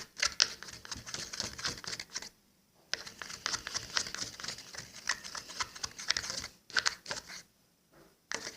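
Spoon stirring a runny white-glue slime mixture in a bowl, with dish soap added as the activator: rapid wet scraping and clicking that breaks off twice briefly.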